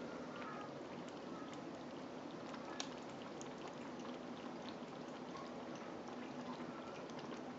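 Kitten lapping water, a run of faint, quick, irregular wet clicks over a steady low background hum.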